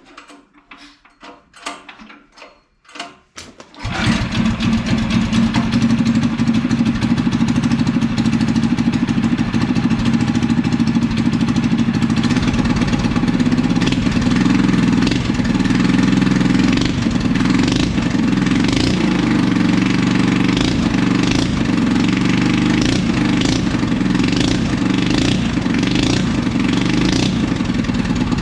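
Cyclekart's single-cylinder engine cranked over in a string of quick separate chuffs for about four seconds, then catching and running loud and steady. It exhausts through a homemade fiberglass-packed glass pack muffler, which mellows the single cylinder's bark compared with a straight pipe.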